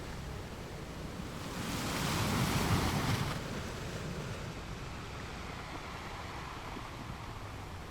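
Sea waves breaking on rocks, one wave surging and crashing about two seconds in, then a softer steady wash of surf.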